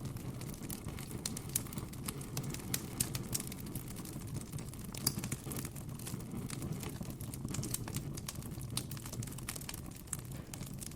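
Campfire crackling: quick, irregular pops and snaps of burning wood over a low, steady rumble.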